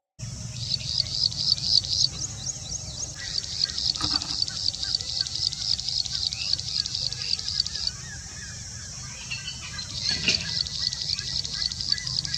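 Call of the small bird known in Malayalam as vayal kuruvi: a fast run of high, evenly repeated notes, about five a second, pausing briefly about eight seconds in and then resuming, over a low steady hum.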